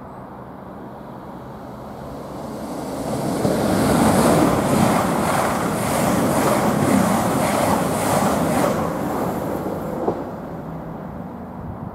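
CrossCountry Voyager diesel multiple unit running through the station at speed without stopping. The rush of the train builds to a peak about four seconds in, with a regular clicking of wheels over the track, and fades after about nine seconds.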